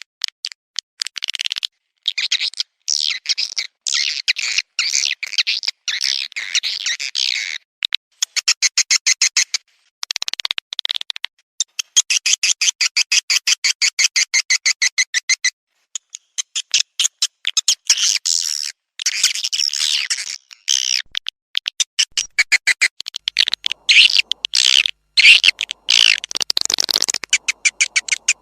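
Swiftlet lure call recording: dense, high-pitched chirping and twittering of edible-nest swiftlets in short bursts, with stretches of rapid, evenly spaced clicking pulses.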